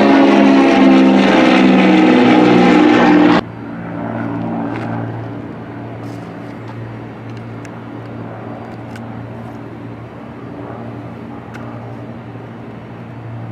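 Propeller airplane's engines passing close, loud, with their pitch falling, cut off suddenly about three seconds in. After that comes a faint, steady, low hum.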